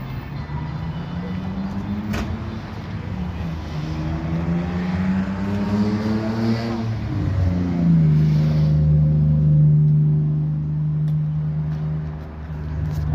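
A car engine revving: its pitch rises over the first couple of seconds, climbs again from about four to seven seconds, then holds a steady, loud note for about four seconds before easing off near the end.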